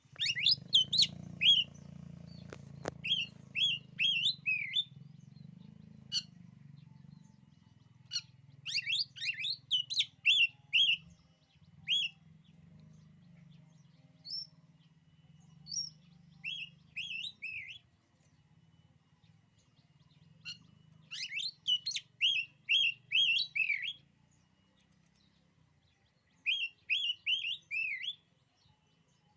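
Oriental magpie-robin singing: phrases of rapid, repeated whistled and chirped notes, each lasting a few seconds, separated by short pauses.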